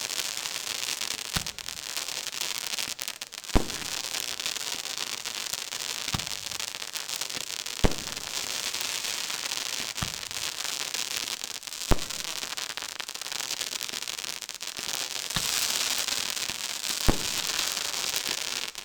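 Fireworks display: dense, steady crackling, with a sharp bang about every two seconds.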